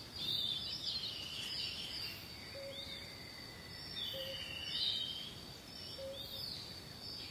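Birds chirping and calling over a steady hiss: many quick high chirps and trills, with a short lower call repeating about every second and a half.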